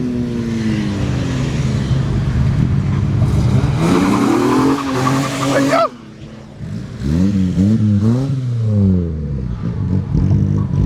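Car engine revving hard with tyre squeal, the engine note climbing until it cuts off sharply about six seconds in; then the engine is blipped up and down a few times before settling into a steady run.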